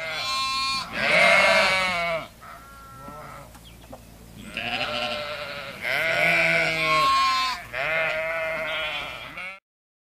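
Sheep bleating: a series of about five loud, wavering bleats with quieter ones between, cutting off suddenly near the end.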